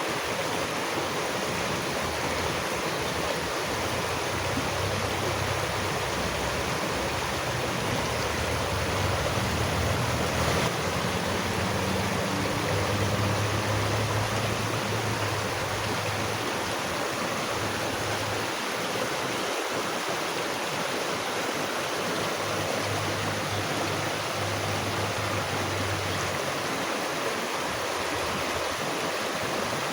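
Steady rushing of running water, like a stream, with a low rumble underneath through most of the middle of the stretch.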